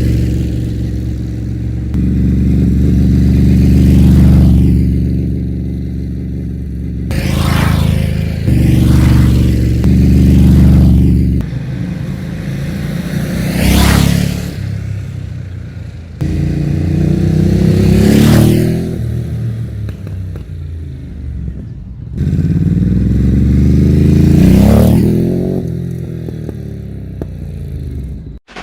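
Ducati Monster 950's L-twin engine through a Termignoni exhaust, idling and revved repeatedly, each rev rising in pitch and dropping back. The sound cuts off abruptly near the end.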